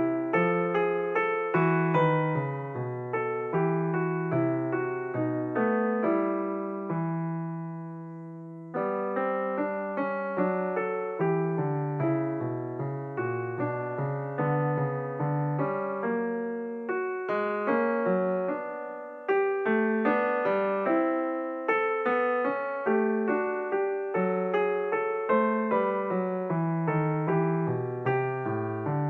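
Background solo piano music: a gentle melody over a low bass line, with a held chord letting ring and fading about seven seconds in and a brief fade again near twenty seconds before the playing resumes.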